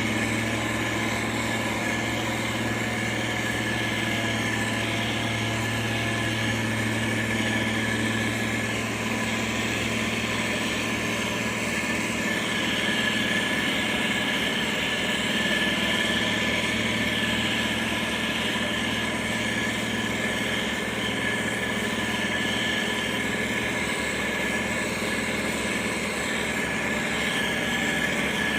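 Heavy diesel engine of road-building machinery running steadily, a low even drone with a steady high whine over it.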